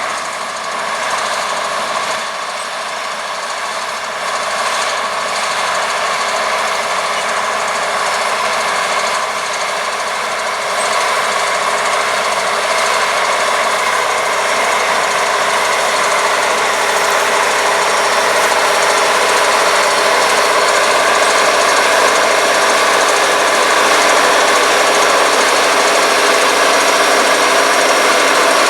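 International Harvester 1256 Turbo tractor's turbocharged six-cylinder diesel running steadily under load, pulling a 430 small square baler through wheat straw. It grows gradually louder.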